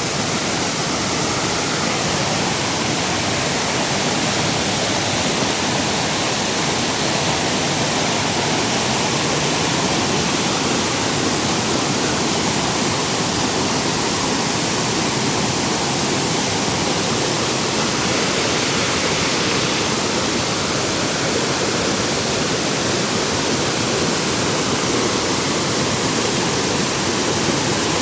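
Small waterfall pouring steadily into a pool, a constant rushing of falling water.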